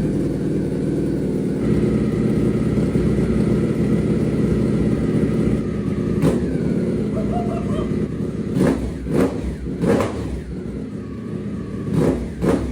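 Ducati Panigale V4 motorcycle's V4 engine idling, then blipped sharply about six times in the second half. The exhaust is very loud.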